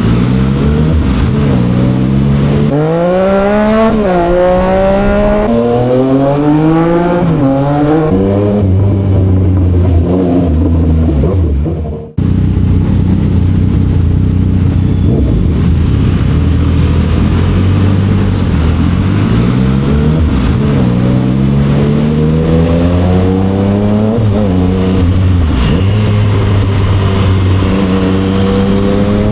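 Yamaha XSR900's inline-three engine through an SC Project aftermarket exhaust, ridden hard. It revs up and drops back again and again as it pulls through the gears. The sound cuts out briefly about twelve seconds in.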